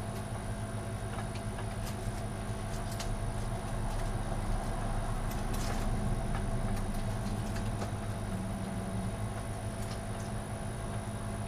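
Steady low machine hum with a faint high whine, under scattered faint clicks and rustles of computer-case wires being handled and pulled through the case.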